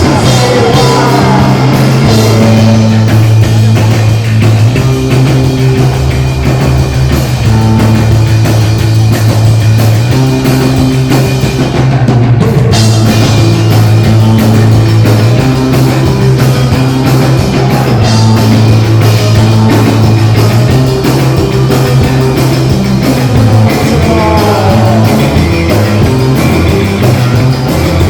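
Live rock band playing loudly, with a drum kit and long low notes that change every second or two.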